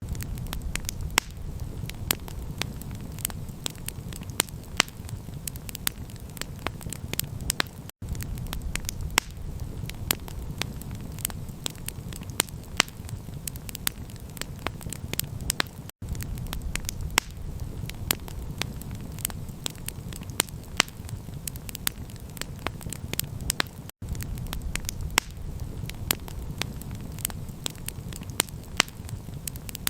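Campfire crackling: frequent sharp pops and snaps over a steady low rumble of burning. The sound cuts out for an instant about every eight seconds, where a short loop repeats.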